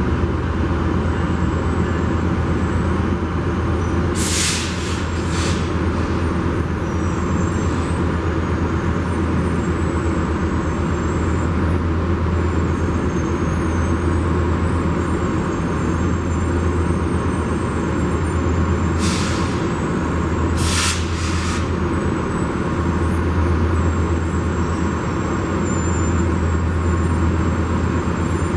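Steady low rumble of a Metrolink diesel commuter train, with short hisses of compressed air in two groups: two about four and five seconds in, and three more around twenty seconds in.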